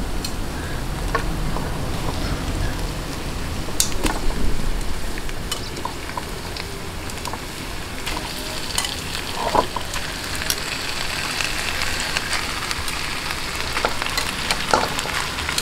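Raw chicken pieces sizzling as they go into hot oil in a wok with sautéed garlic, onion and ginger. The frying hiss is steady, with scattered sharp clicks as the pieces are placed with tongs.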